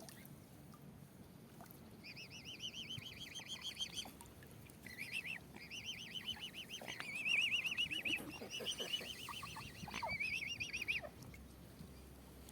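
A bird calling in rapid chattering trills of quickly repeated high notes, in several runs one after another, then stopping about a second before the end.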